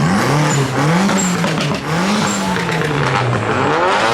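Car engine revving hard, its pitch rising and falling about four times, over a loud rushing noise.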